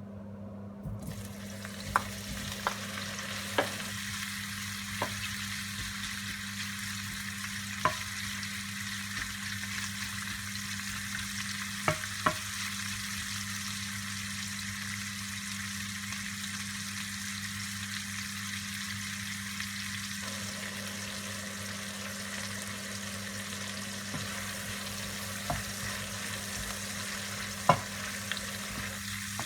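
Hotdogs frying in hot cooking oil in a pan: a steady sizzle that starts about a second in, with a few sharp clicks and pops along the way.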